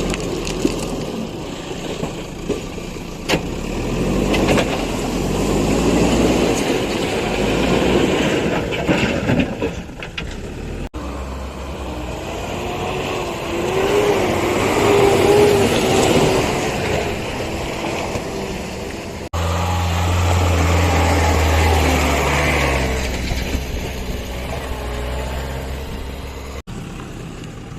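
Heavy diesel engine of a construction vehicle running and revving under load, its pitch rising and falling, with a few sharp clanks. The sound breaks off abruptly three times.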